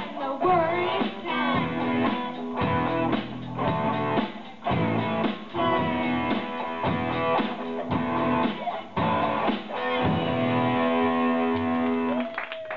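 A rock band playing live: strummed electric guitar chords over bass, in a steady rhythm. About ten seconds in it settles on a held chord that rings and then stops near the end, closing the song.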